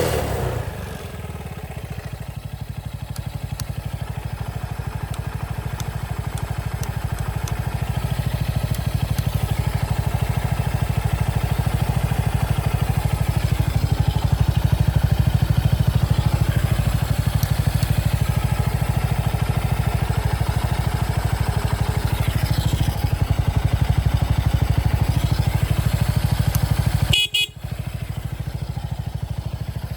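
Honda XL230's air-cooled single-cylinder four-stroke engine idling steadily, with a brief drop-out near the end.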